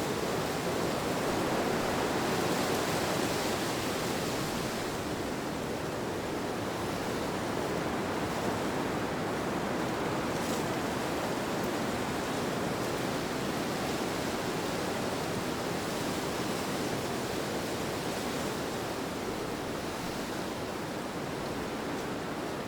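Steady rushing wind, a smooth even noise with no distinct events, swelling a little in the first few seconds and easing slightly near the end.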